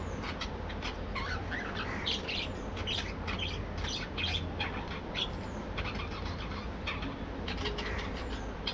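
A colony of budgerigars chattering, many short chirps and small warbles overlapping with no break, over a steady low hum.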